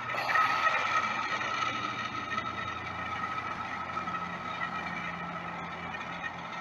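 Jet airliner engines running: a steady whine over a rushing noise, loudest about half a second in and then easing off slightly.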